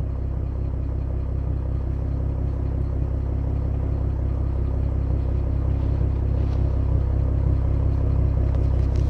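2012 Ford Mustang's 3.7-litre Cyclone V6 with a straight-pipe exhaust idling steadily, a low rumble that grows slightly louder over several seconds.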